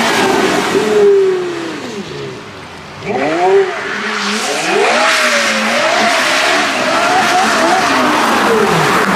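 Porsche Carrera GT's V10 engine revving hard. About a second in, the pitch falls and the sound fades as the throttle comes off. At about three seconds it surges back, the pitch climbing and then wavering high under full acceleration.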